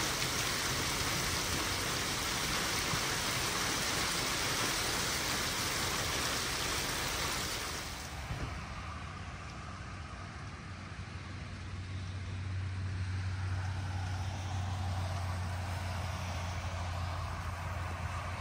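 Steady hiss of heavy rain falling on pavement, which cuts off abruptly about eight seconds in. It gives way to quieter open-air noise with a low, steady rumble of road traffic.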